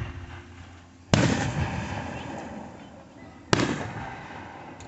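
Fireworks shells bursting: a sharp bang at the start, then two loud booms about a second in and about three and a half seconds in, each fading out over a second or two, and a small pop near the end.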